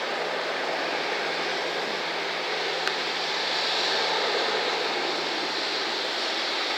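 A McDonnell Douglas MD-87's rear-mounted Pratt & Whitney JT8D turbofans running, heard as a steady rushing hiss over a low hum that swells slightly midway.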